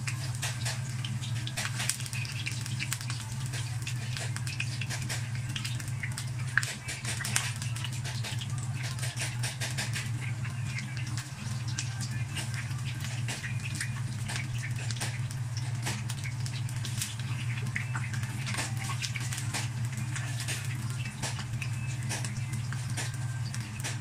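Eggplant pieces frying in hot oil in a non-stick wok: a constant crackle of sharp pops and spatters as more pieces are laid in, with two louder clicks about seven seconds in. A steady low hum runs underneath.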